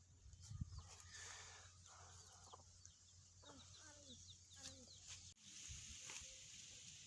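Chickens clucking faintly, with a run of short calls in the middle.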